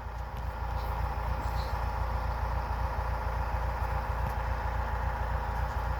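Tractor engine running steadily, a low, even hum.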